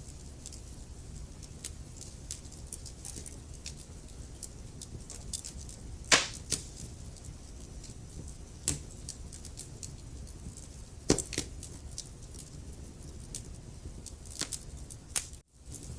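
Wood fire burning in a fireplace: a steady low rumble of flames under many small crackles, with two louder pops about six and eleven seconds in. The sound cuts out very briefly near the end.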